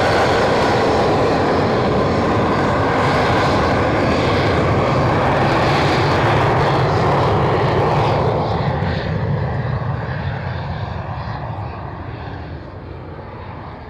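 Military aircraft's engines at takeoff power, loud and steady at first, then fading as the aircraft rolls down the runway and climbs away.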